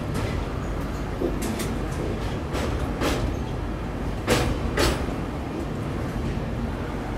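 Passenger train running on the rails: a steady low rumble broken by a few sharp clacks, several coming in pairs.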